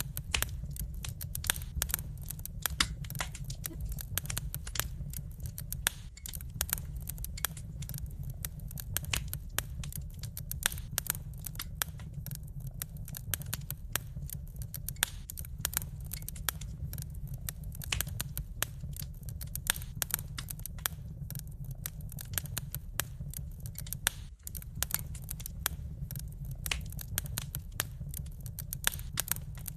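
Wood fire crackling in a fireplace: dense, irregular pops and snaps of burning logs over a steady low rumble.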